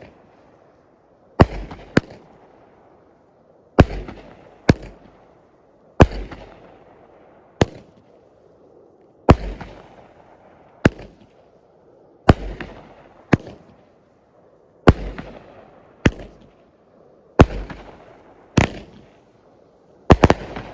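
Striking Rainbow consumer firework cake firing its shots one after another, about one every two and a half seconds: each a low launch thump from the tube followed about a second later by the sharp bang of the shell bursting overhead. The reports are loud.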